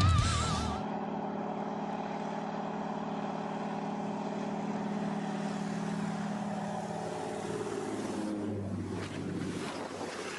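Aircraft engine drone, steady and even, with its pitch sagging a little about eight seconds in before giving way to a rougher rushing noise. Music cuts off just under a second in.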